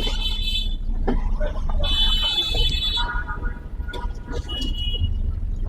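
Street traffic heard from a moving car: a steady low engine and road rumble, with four short high-pitched toots from horns of passing vehicles.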